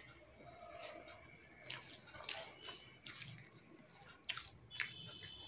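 Faint wet chewing and lip-smacking from a mouthful of rice and soybean curry eaten by hand, with scattered soft clicks and squishes.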